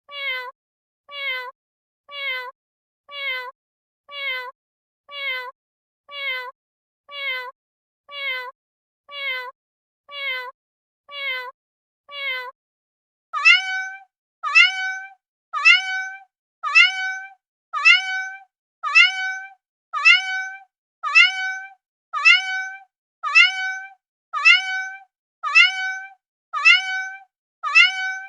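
Domestic cat meowing: the same short, falling meow repeated over and over, about one and a half times a second, then from about halfway a louder, higher-pitched meow repeated about once a second.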